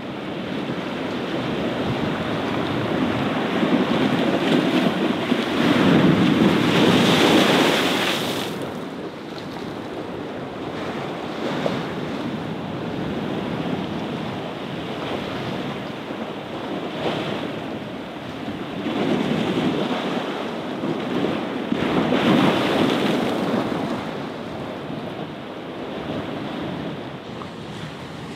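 Ocean surf breaking against a concrete sea wall and washing up the sand. The waves swell loudest twice, a few seconds in and again past the middle.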